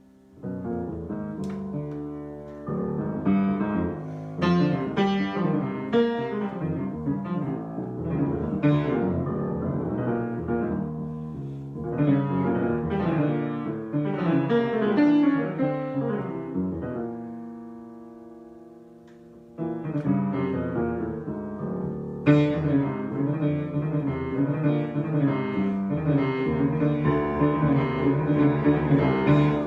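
Improvised piano playing: chords and runs of notes, with a held chord dying away about two thirds of the way through before the playing picks up again and grows fuller and louder.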